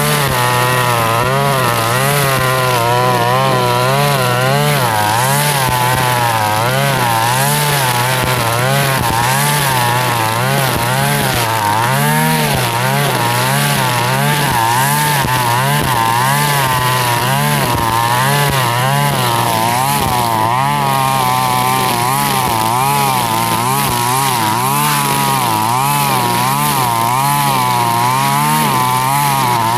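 Husqvarna 542RBS backpack brush cutter's two-stroke engine running at working speed with a nylon trimmer line head cutting grass. Its pitch wavers up and down continuously as the load on the line changes.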